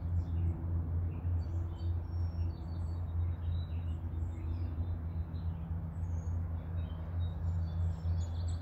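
Birds chirping faintly and on and off over a steady low hum, with a quick run of chirps near the end.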